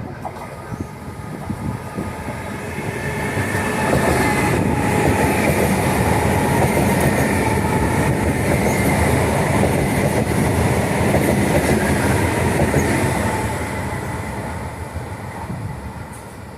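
A train passing through a station on the rails. Its rumble and wheel noise build over a few seconds, stay loud for about nine seconds with a steady whine above them, then fade away.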